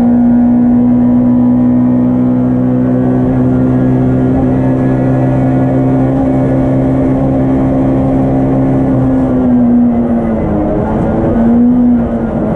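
Yugo race car's engine heard from inside its stripped, roll-caged cabin, running at high revs on a steady note under load. About ten seconds in the revs fall, pick up briefly, then break off near the end and settle lower.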